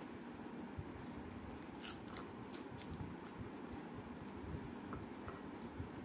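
Close-up chewing and mouth sounds of a person eating rice mixed with mashed potato by hand, with scattered small wet clicks over a steady low background hum.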